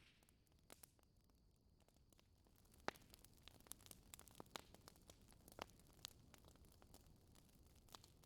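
Wood fire crackling: irregular sharp snaps and pops over a faint low hiss, the pops coming more often from about three seconds in, with the loudest snap near three seconds.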